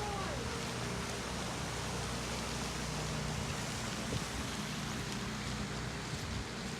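Pressure washer running steadily, its motor humming under the hiss of high-pressure water spraying onto concrete through a surface cleaner.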